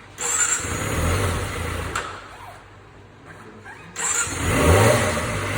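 Kawasaki ZX-25R's 250 cc inline-four engine on its stock exhaust, revved in two blips: one starting just after the beginning and one about four seconds in. Between the blips the engine note rises and falls back to a quieter idle.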